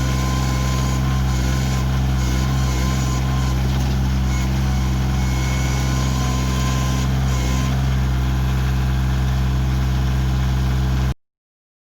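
Kioti CK2610 tractor's three-cylinder diesel engine running steadily at an even speed, then cutting off abruptly about eleven seconds in.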